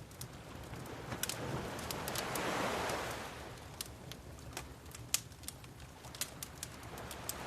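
Wood fire crackling with many sharp, irregular pops over waves washing in and out. One wave swells and fades in the first half, and another builds near the end.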